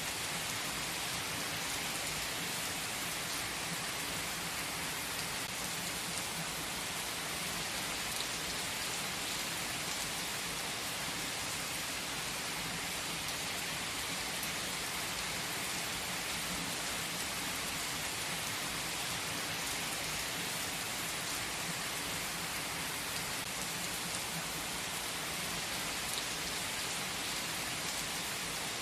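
A steady, even hiss of rain, with a few faint drop-like ticks.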